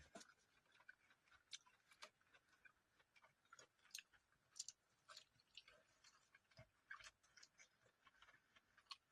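Faint, irregular light clicks and crunches, a few a second.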